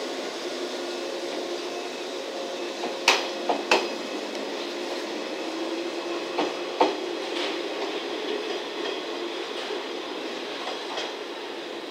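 JR West 115-series electric train rolling slowly past with a steady running hum. Its wheels clack sharply over rail joints in two pairs of knocks, a few seconds apart.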